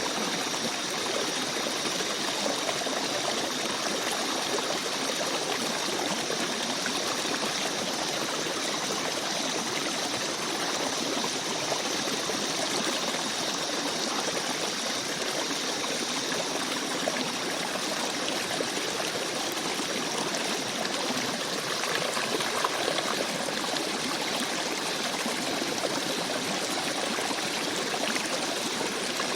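A small forest stream babbling and trickling over rocks, a steady flow of water with no change.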